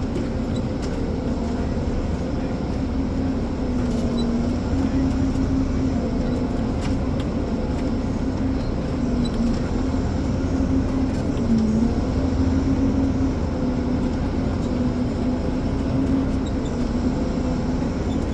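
Diesel engine of a Ponsse Elephant forwarder running steadily, its pitch sagging briefly twice.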